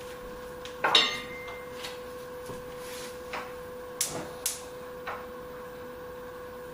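Metal utensil knocking against a cast-iron Dutch oven while browning ground beef and sausage: one loud clank with a brief ring about a second in, then four lighter knocks.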